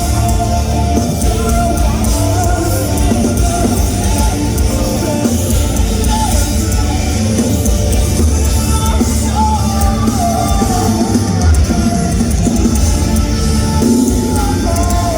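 Rock band playing loud live music in a concert hall: drums, guitars and a singing voice over a heavy, steady low end.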